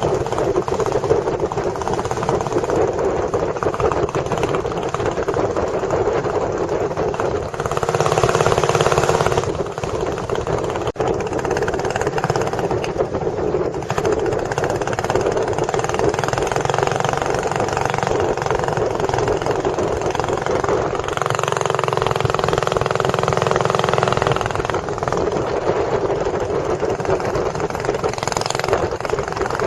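A boat engine running steadily, its tone shifting briefly a few times.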